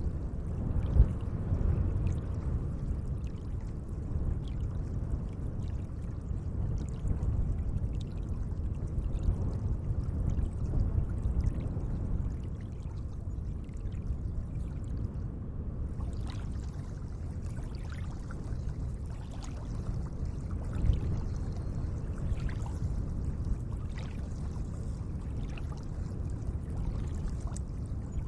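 Gentle lake water lapping and sloshing: a steady low wash with scattered small splashes and drips, slightly louder about a second in and again about twenty-one seconds in.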